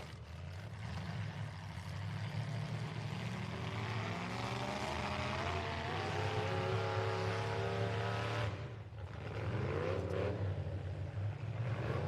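Demolition derby truck engines running with a steady low drone; from about four seconds in an engine revs up, its pitch climbing steadily for several seconds before cutting off suddenly, then a shorter rev rises and falls.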